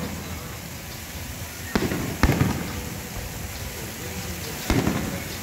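Aerial fireworks shells bursting: two booms about half a second apart around two seconds in and a third near the end, each followed by a trailing rumble and crackle.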